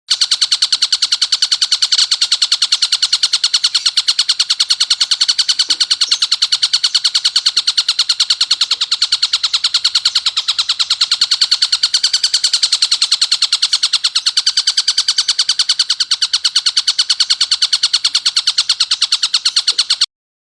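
Tengkek buto kingfisher calling: a harsh, dense rattle of rapid high notes repeated evenly several times a second without a break, cutting off suddenly near the end.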